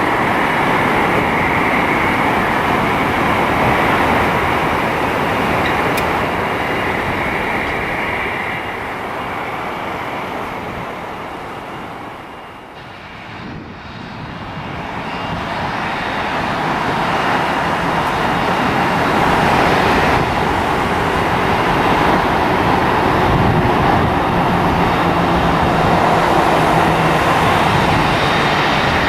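Jet aircraft engine noise passing by, loud with a high whine in the first part, fading about halfway through and then building back up to full loudness.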